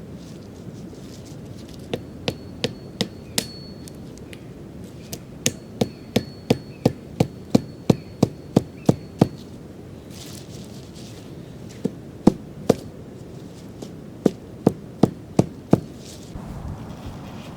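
Repeated hammering blows in several runs, about three strikes a second, with pauses between the runs.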